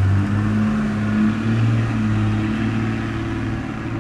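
Motorcycle engine idling, a steady low hum that rises slightly in pitch about a second and a half in and eases off near the end.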